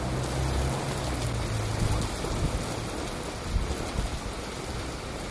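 Wind and water noise, a steady rushing hiss, with a low hum that fades out about two seconds in and a few soft knocks.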